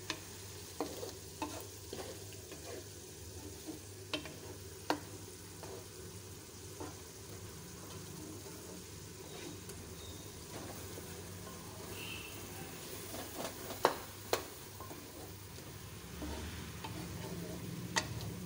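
Chicken and chopped tomatoes sizzling as they fry in a metal pan, stirred with a spatula that scrapes and knocks against the pan in scattered sharp clicks, the loudest about two-thirds of the way through and near the end.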